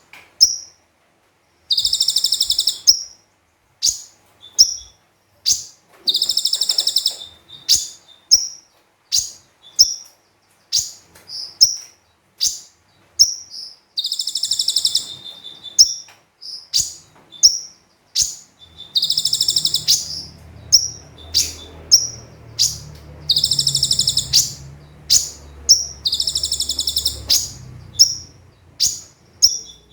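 Olive-backed sunbird singing: sharp high chirps, one or two a second, broken every few seconds by a shrill buzzing trill about a second long. A faint low rumble joins in about two-thirds of the way through.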